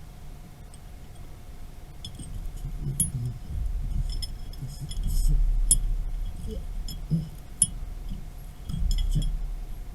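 Metal parts clinking and rattling, with a few sharper clicks, over a faint steady hum and uneven low rumbling.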